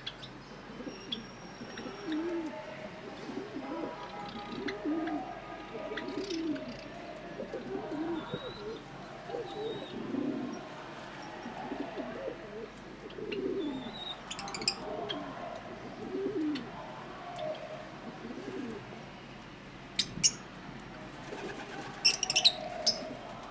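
Domestic pigeons cooing over and over in low, rolling calls, with small birds chirping faintly above them. A few sharp, loud high-pitched chirps or clicks come near the end.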